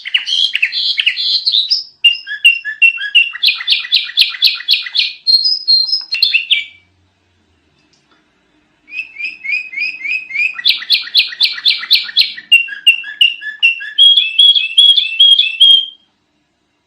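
Sooty-headed bulbul (kutilang) singing in fast, chattering runs of repeated high notes, changing phrase every second or so. It sings in two long bursts with a pause of about two seconds between them, and stops shortly before the end.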